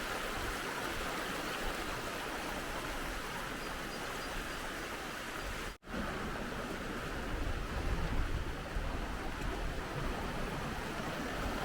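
Steady outdoor rushing noise with a deep rumble underneath, broken by a sudden brief dropout about six seconds in.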